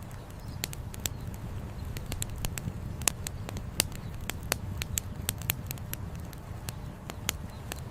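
Wood campfire crackling, with irregular sharp pops several times a second, over a steady low rush of flowing river water.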